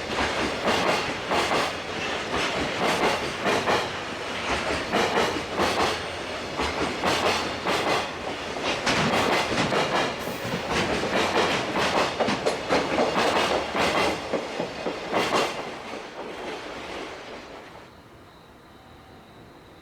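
Freight train wagons clattering past in a fast run of wheel clicks over the rail joints. The sound fades away over about two seconds near the end as the last wagon goes by.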